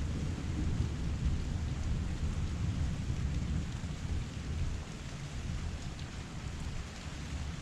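Heavy rain falling steadily, with a low rumble of thunder that slowly fades away.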